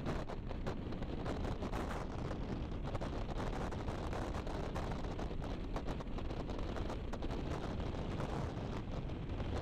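Wind buffeting the microphone of a motorcycle riding at speed, a steady rush with the engine and road noise underneath.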